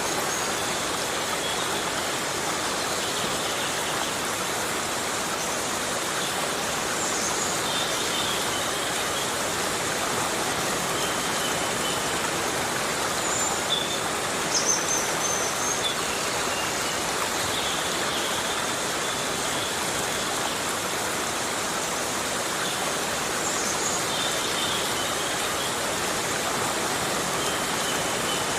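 Heavy rain falling steadily in a tropical forest: an even hiss that holds level throughout, with faint short high-pitched sounds here and there.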